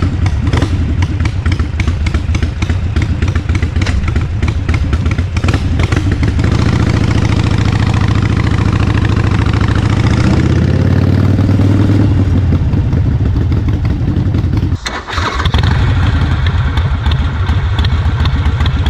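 Harley-Davidson Iron 883 air-cooled V-twin motorcycle engine idling with an uneven, pulsing beat, revved up and held for a few seconds before dropping back to idle. Near the end it cuts to another stretch of the same engine idling.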